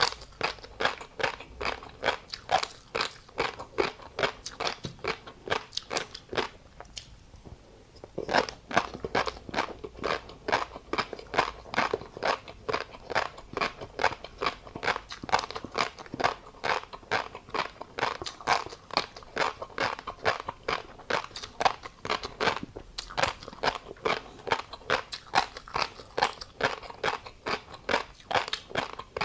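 Mouth chewing tobiko fish roe with a crunchy seafood topping: a quick run of crisp crunches, about three a second, with a short pause about seven seconds in.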